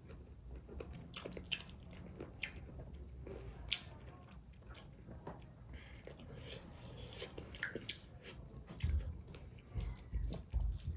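Close-miked eating sounds: a person chewing and biting food, with irregular short wet clicks and smacks.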